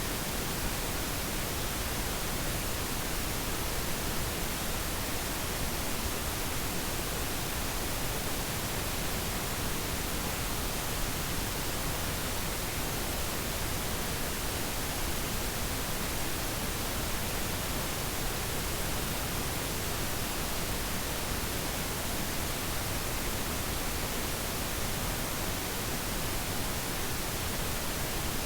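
Steady, unchanging static hiss, even from the lowest to the highest pitches.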